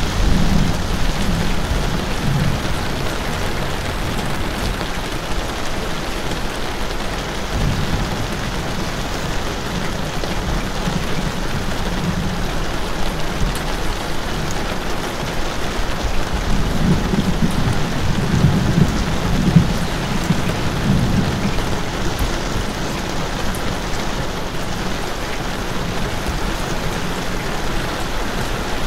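Steady rain falling, an even hiss, with low rumbles of thunder that swell from about halfway through.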